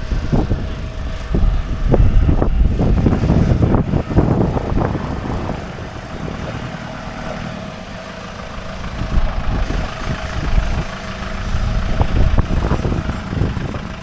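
Road vehicle engine rumble that rises and falls, loudest in the first few seconds and again from about ten seconds in, with a quieter stretch between.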